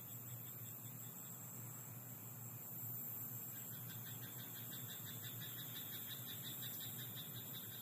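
Frogs in a rice paddy at night calling faintly, a soft rapid croaking picking up again about halfway through, over a steady high hiss of night insects.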